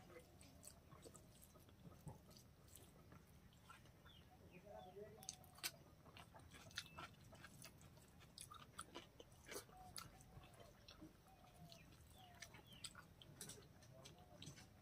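Quiet, close-miked chewing of hand-mixed rice and pork, with many small wet mouth clicks and smacks.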